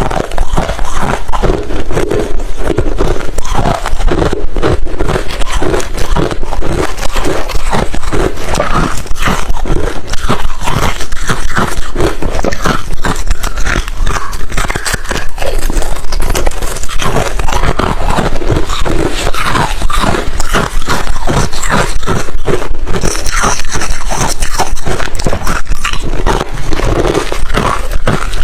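Refrozen crushed ice being bitten and chewed close to the microphone: a loud, dense, continuous stream of hard crunches and crackles.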